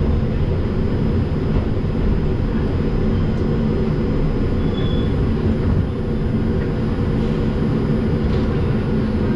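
Steady low rumble with a constant hum from an R142 subway car standing at a station, its equipment running.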